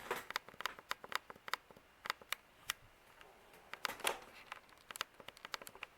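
Irregular light clicks and ticks, a few a second, with a short rustle about four seconds in.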